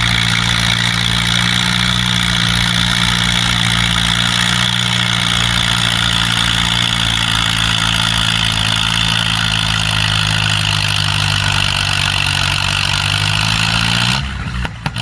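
Farm tractor engine running loud and steady at high revs during a pull; its pitch sags slightly just before it cuts off abruptly about a second before the end.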